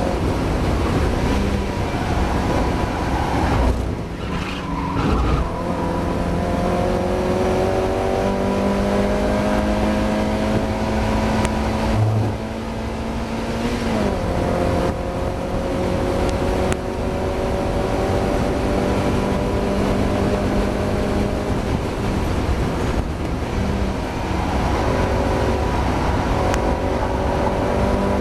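Mazda MX-5's four-cylinder engine heard from inside the race car under hard acceleration, its note climbing slowly through long pulls and dropping in pitch at gear changes about four and fourteen seconds in, over steady road and wind noise. The car is running with a misfire that the driver is struggling with.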